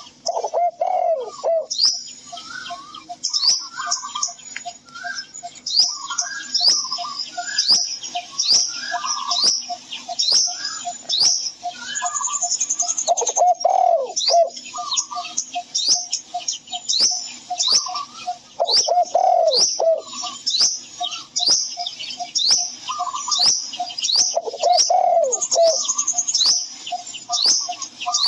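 Several birds calling: quick high chirps repeat throughout over a steady series of short low notes, about three a second. A lower, cooing call comes back every five or six seconds.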